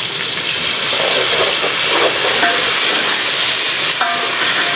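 Onions, tomatoes and ginger-garlic paste sizzling steadily in hot ghee in an aluminium pot, stirred with a metal slotted spoon.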